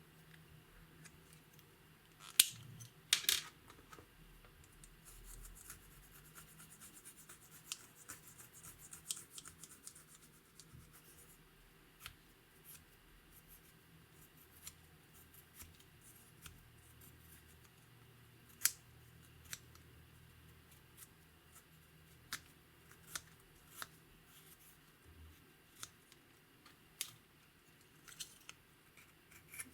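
Slime and makeup being worked by hand: scattered sharp clicks and light crackling. The loudest clicks come a few seconds in, with a stretch of fine crackle after them and single clicks spaced out through the rest.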